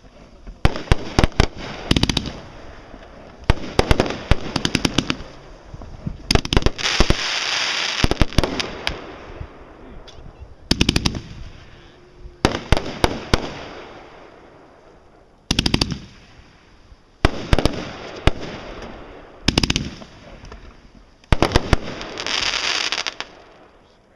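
Aerial fireworks going off in repeated volleys: clusters of rapid sharp bangs every couple of seconds, some clusters followed by a fading hiss.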